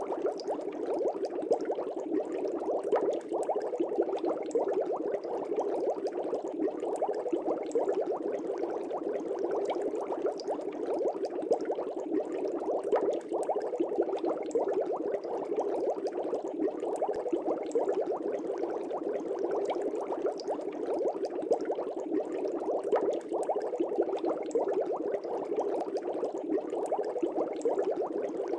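Steady, dense bubbling of air bubbles rising and breaking in an aquarium, with many small pops throughout.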